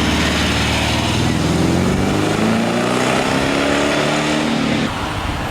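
A car engine running, its pitch rising as it accelerates, until it cuts off abruptly near the end.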